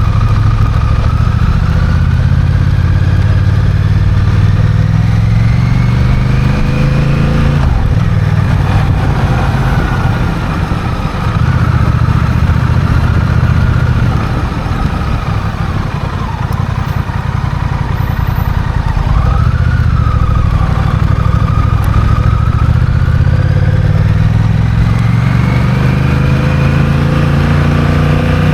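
Honda CMX1100 Rebel's parallel-twin engine under way on the road. The engine note rises slowly through a gear and drops at a gear change about eight seconds in, holds fairly steady for a long stretch, then climbs again toward another shift at the very end.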